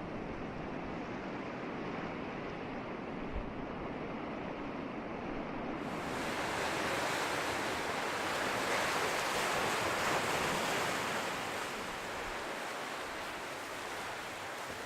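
Ocean surf on a beach: a steady wash of waves, with a wave swelling louder past the middle and then easing off.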